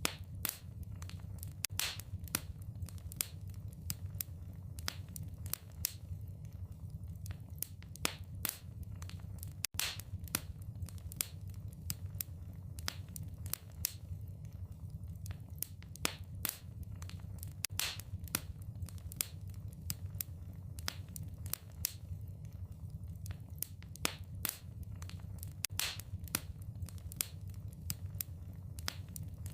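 Wood fire crackling in a fireplace: irregular sharp pops and snaps over a low, steady rumble of burning. The sound cuts out for a split second about ten seconds in.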